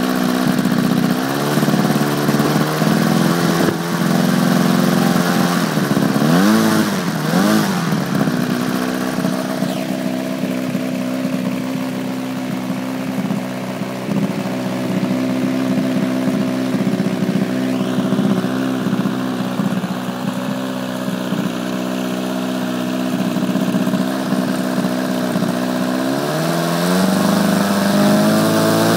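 3W four-cylinder boxer two-stroke model aircraft engine running steadily at low speed, its throttle blipped twice in quick succession about seven seconds in, then opened up again near the end with a rising pitch.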